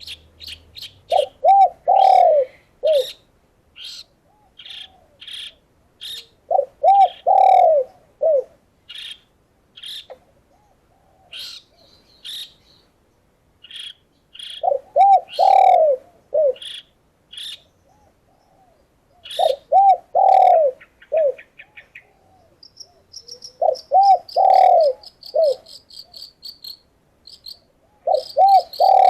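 Doves cooing in short phrases of three or four curved notes, repeated every few seconds, with sharp chirps of small birds between the phrases. A fast, high, insect-like trill comes in near the end.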